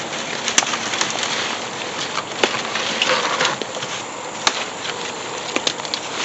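Footsteps pushing through dry brush and leaf litter, with a few sharp twig snaps.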